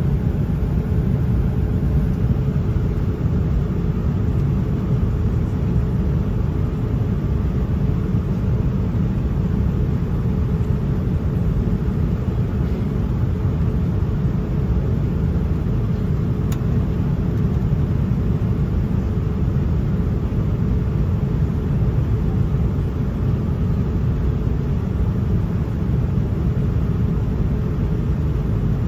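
Airliner in flight: a steady low rumble of engine and airflow noise, with a faint steady hum above it.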